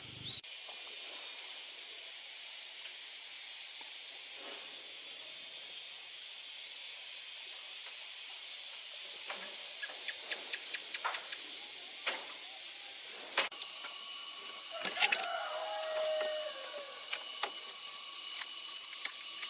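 A steady high-pitched hiss, with scattered short clicks and knocks from about halfway and a brief pitched call about three quarters of the way in.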